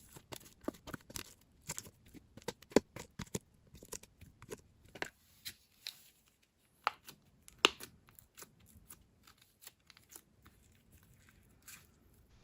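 DIY clay slime being handled: irregular sharp clicks and small snaps, loudest about three times.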